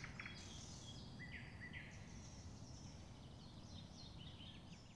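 Faint, scattered bird chirps over low, steady background noise.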